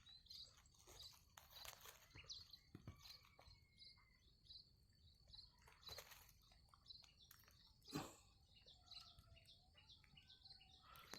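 Faint scraping and knocking as a hand works inside a kingfisher's nest hole to reach the chicks, with faint high bird chirps scattered through; one louder scrape about eight seconds in.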